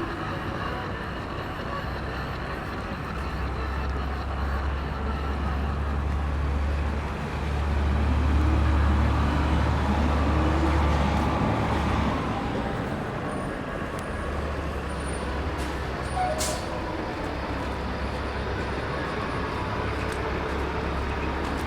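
City street traffic, with a heavy vehicle's engine rumbling low and close by for most of the time, dropping out briefly about halfway through.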